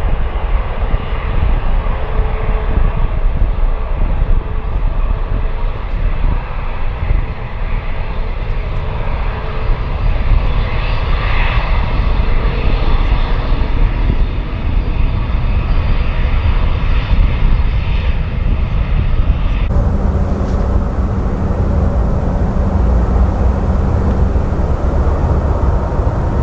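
Jet airliner engines running loudly and steadily as an aircraft takes off or lands. About twenty seconds in, the sound cuts abruptly to another stretch of jet engine noise with a steady low hum.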